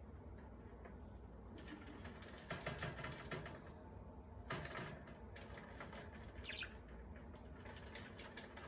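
Pet budgerigars scuffling and fluttering their wings in short bursts, with light rapid clicking sounds.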